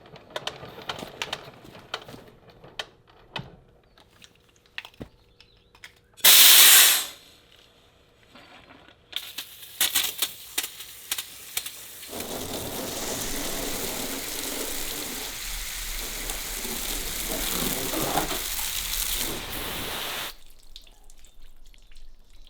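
Garden hose being handled and run: scattered clicks, a short loud burst of spray about six seconds in, then water spraying steadily for around ten seconds before it cuts off suddenly.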